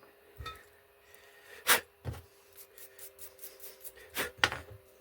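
Hand tools knocking and clicking on a threaded metal fitting as it is screwed into a heat exchanger port with a copper washer: a couple of sharp knocks, then a run of quick light clicks, then two louder knocks near the end.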